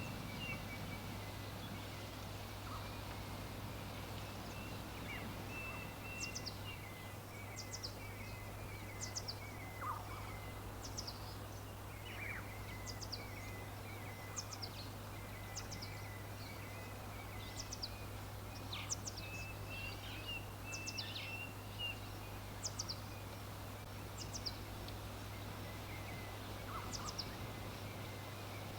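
Wild birds calling: one repeats short, high, falling notes about once a second, while others twitter more softly at a lower pitch. Underneath runs an even background hiss with a steady low hum.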